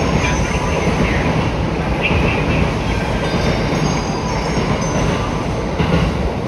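JR East E233 series 7000-subseries electric commuter train running through a station platform at speed without stopping: a loud, steady rumble of wheels on rail as the cars go by, with a couple of brief high squeals in the first few seconds.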